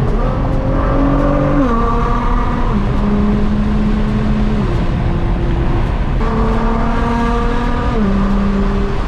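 Nissan GT-R R35's twin-turbo V6 under way on the road, heard from inside the cabin with road noise. The engine note holds nearly steady, drops in pitch a couple of times as the gearbox shifts up, and jumps back up near the end before dropping once more.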